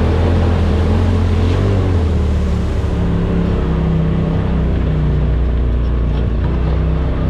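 Side-by-side UTV engine running at steady low revs while under way, its pitch dropping a little about two seconds in.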